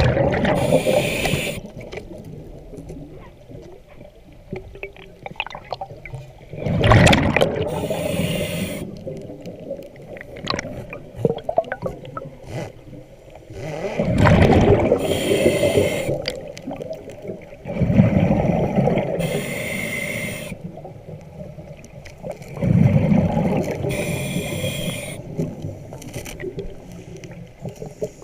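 Scuba diver breathing through a regulator underwater: about five breaths, each a loud low rumble of bubbles with a hiss from the regulator, every five to seven seconds.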